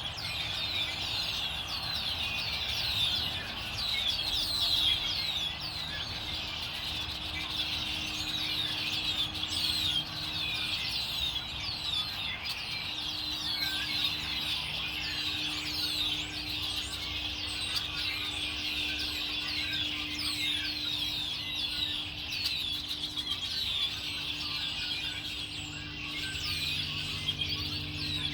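A flock of small songbirds chirping at once in a dense, unbroken chorus of short, quick down-slurred chirps, with a low steady hum underneath.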